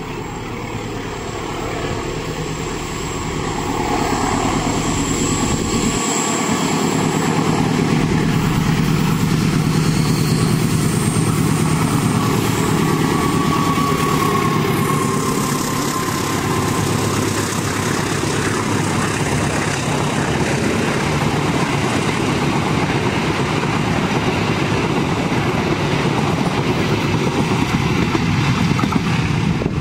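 Diesel-electric locomotive passing close by, its engine building over the first few seconds, followed by the steady rumble and clatter of a long rake of passenger coaches going by on the rails.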